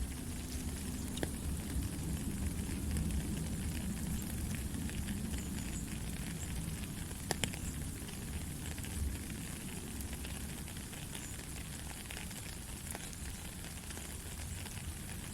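Steady rain: an even hiss of falling water with scattered drop clicks and a low rumble underneath, one sharper drip about halfway through.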